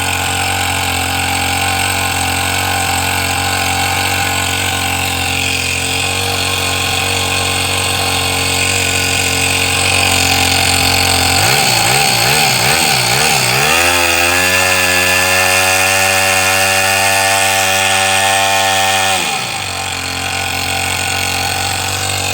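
Toyan FS-S100 single-cylinder four-stroke model engine running. About eleven seconds in the revs swing up and down a few times, then hold higher with a steady whine for about five seconds before dropping back to the earlier speed.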